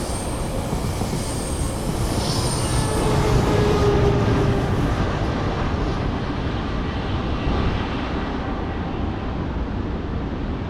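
Steady vehicle rumble, swelling a little about three to four seconds in.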